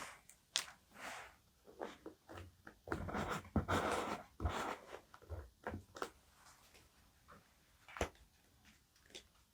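Paper and stationery being handled close to the microphone: scattered soft rustles and taps, a longer stretch of crinkling paper about three seconds in, and a sharp click near the end.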